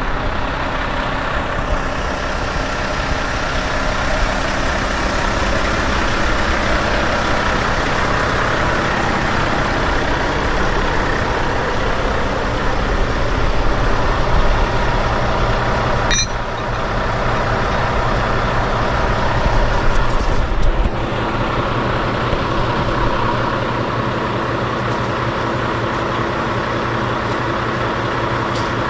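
Semi-truck's diesel engine running steadily at low speed, swelling twice as it pulls, with a single sharp click about halfway through.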